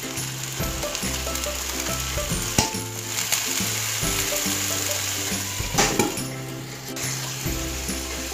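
Squid frying in a hot wok, sizzling as a tomato-chilli sauce is poured over and spread with a spoon. There are a couple of sharp clicks, about two and a half and six seconds in.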